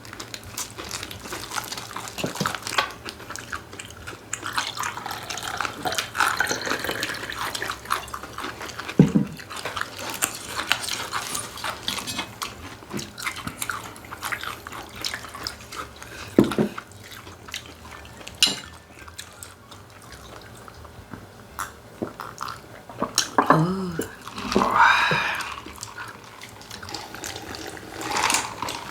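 Close-miked eating sounds: irregular wet chewing, sucking and smacking as people eat chicken. There are a few sharper clicks and a brief pitched sound a little past the middle.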